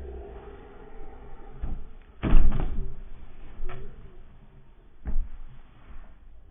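A handful of sharp knocks and bangs, the loudest a heavy bang about two seconds in, with smaller knocks after it.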